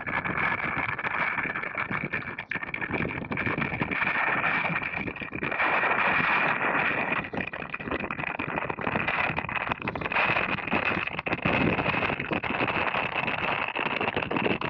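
Wind buffeting a camera microphone while wingfoiling, a rough, fluttering rush with a steady high whine running through it.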